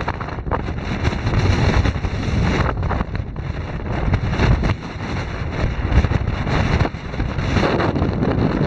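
Heavy wind buffeting the microphone above treeline: a loud, gusting rumble that surges and eases every second or two.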